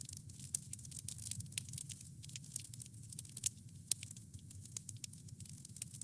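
Wood fire crackling: quick irregular snaps and pops over a steady low rumble of flames, with a couple of sharper pops.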